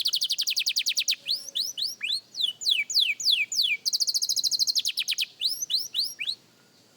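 Young canary practising its song: a fast trill of rapid repeated notes, then slower downward-sweeping notes, a second fast trill midway, and a few more sweeps before it stops about six seconds in.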